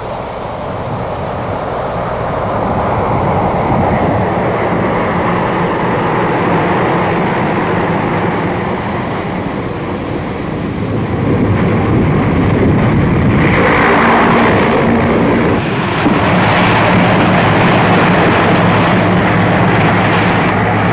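Four-engine LC-130 Hercules turboprops running steadily as the ski-equipped aircraft comes in to land on a snow skiway. The noise grows louder and harsher about two-thirds of the way through.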